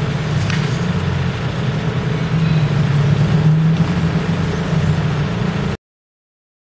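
A motor vehicle's engine running steadily, a low hum with street noise over it, which cuts off suddenly near the end.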